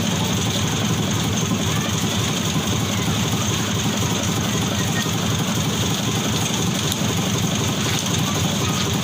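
A construction machine's engine running steadily at a constant pace.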